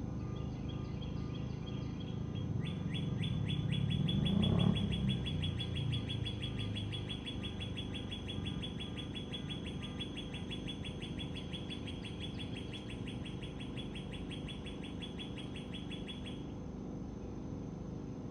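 A rapid, even chirping trill, many chirps a second, starting about three seconds in, running about thirteen seconds and stopping abruptly. Under it a low engine rumble swells to its loudest about four to five seconds in, then fades back to a steady drone.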